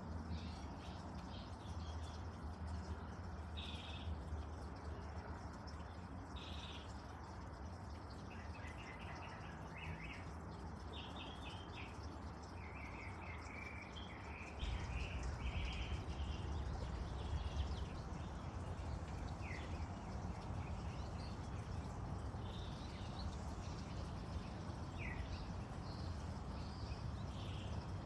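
Small birds giving short, scattered chirps and quick high calls over a steady low rumble. The rumble gets louder about halfway through.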